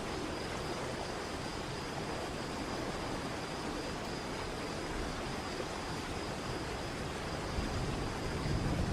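Steady rushing of falling water from a waterfall, with a faint steady high tone above it. A low rumble builds near the end.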